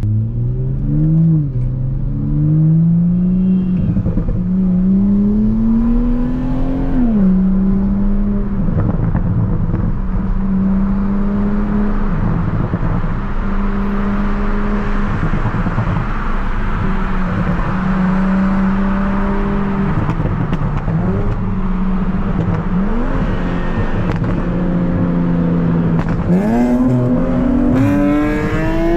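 Tuned Toyota Supra MK5's B58 turbocharged straight-six under load. It climbs in pitch and drops back at each upshift twice in the first few seconds, then cruises at a fairly steady pitch for most of the time, and picks up and rises again near the end.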